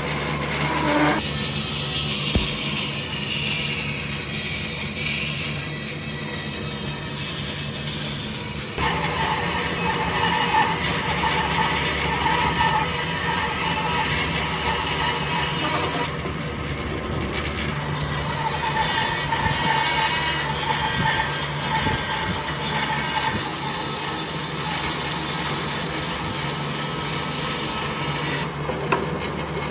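Power tool running steadily on wood, with a constant low hum under a rough, hissing noise that changes abruptly several times.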